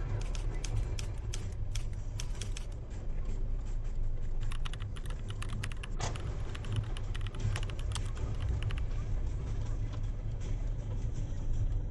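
Car engine and road rumble heard from inside the car, with quick, irregular light clicking in two stretches, one at the start and another from about four to nine seconds in.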